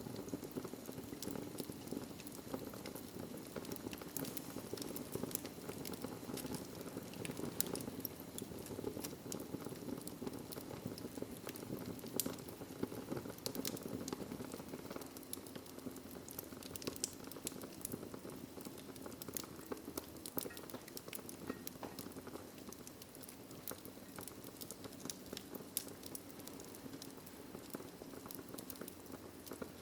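Wood fire crackling in a fireplace: a steady low rush of flame with constant small crackles and scattered louder pops.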